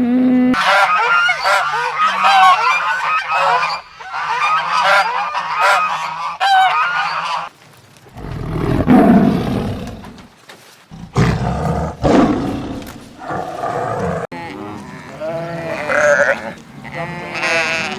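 A flock of farmyard fowl calling: many short overlapping calls for about seven seconds, followed by several louder, lower single animal calls and more pitched calls near the end.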